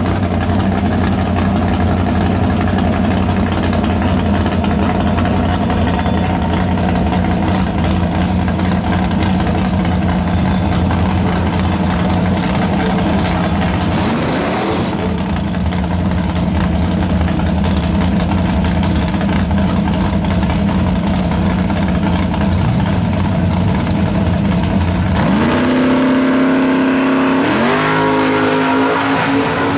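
Drag cars idling loudly at the starting line, with a short rev about halfway. Near the end one launches and accelerates hard, its engine pitch climbing with a shift partway up.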